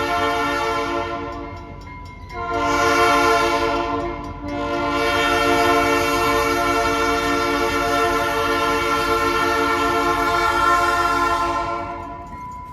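Freight locomotive's multi-chime air horn blowing three blasts: one ending about two seconds in, a shorter one, then a long one lasting about seven seconds. This is the tail of the long-long-short-long pattern sounded for a grade crossing.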